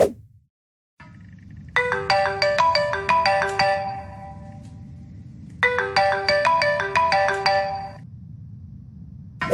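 An iPhone ringtone playing: a bright melody of short mallet-like notes, heard twice over a low background hum. A brief thump comes at the very start, before the tone begins.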